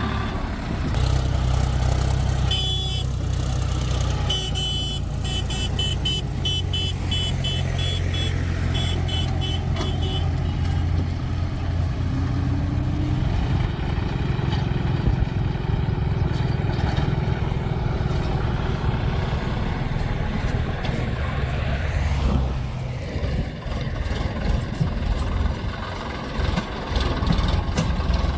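Heavy diesel engines of a JCB backhoe loader and a tractor running steadily during soil loading. A series of short, evenly repeated high beeps sounds in the first third. The deep engine note drops away about 23 seconds in.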